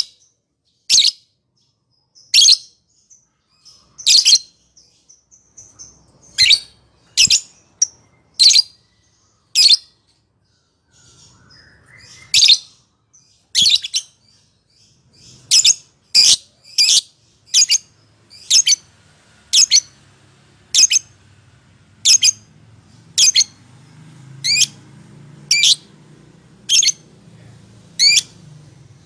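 Lovebird giving short, shrill chirping calls one after another, about one a second, with a brief pause partway through.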